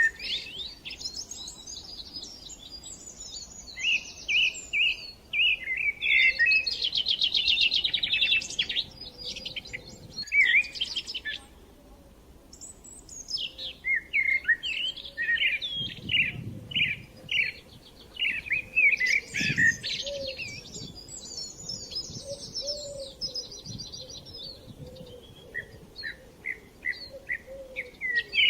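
Small birds chirping and twittering: many quick, overlapping calls and rapid buzzy trills, with a brief lull around the middle.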